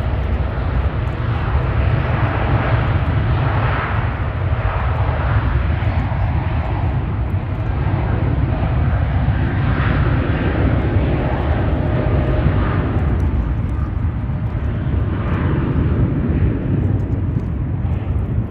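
Jet airliner engines running loud and steady: a deep rumble under a broad hiss that rises and falls slightly, thinning near the end.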